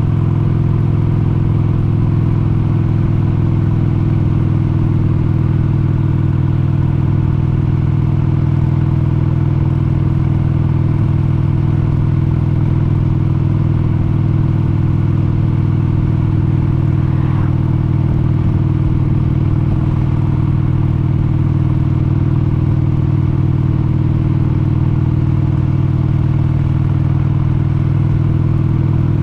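1996 Harley-Davidson XLH883 Sportster's air-cooled 883 cc V-twin engine running under way at a steady, unchanging speed.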